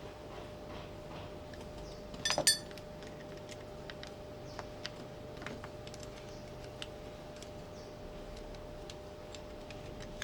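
Metal parts being handled: a loud metallic clank with a short ring about two seconds in, then scattered faint clicks and taps, over a steady faint hum.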